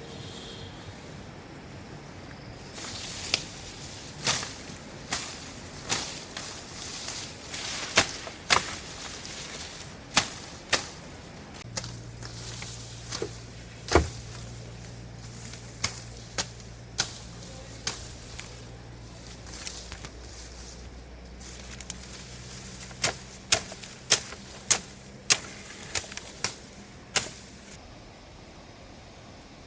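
Irregular sharp knocks and clacks, about twenty spread over the stretch, some in quick pairs, with a low steady hum in the middle.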